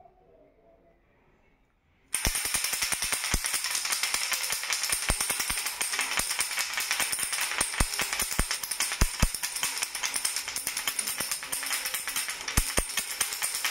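A toy rattle shaken fast and without a break, a dense jingling rattle that starts suddenly about two seconds in.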